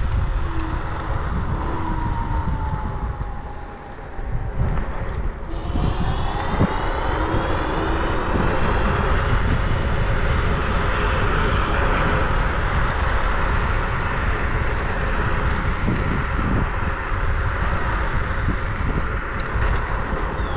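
Wind buffeting the microphone of a moving rider, with a vehicle's whine that rises in pitch about five seconds in as it speeds up, then holds steady.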